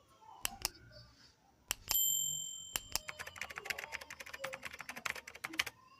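A few sharp clicks, then a single bright metallic ring that fades over about a second, followed by a fast run of clicks that stops shortly before the end.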